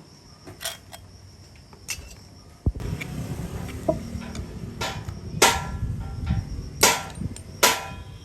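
A hammer striking metal in about six irregular blows, each ringing briefly, with a low background rumble rising from about three seconds in.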